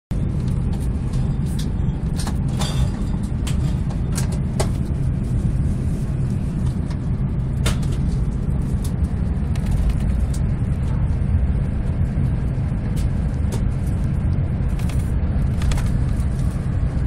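Steady low rumble of a Renfe AVE high-speed train running at speed, heard from inside the passenger car, with scattered light clicks and knocks over it.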